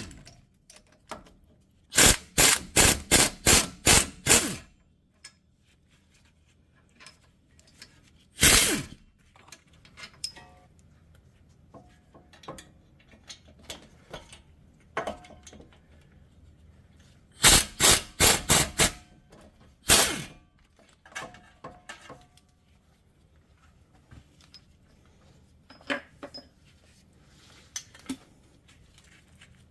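Hammer blows on steel, in quick runs of several strikes about three a second with single blows between, then lighter knocks toward the end, struck at a seized front wheel hub bearing.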